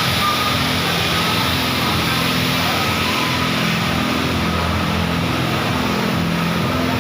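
Steady drone of aircraft engines and rushing air inside a passenger plane's cabin, a constant hiss over a low, even hum.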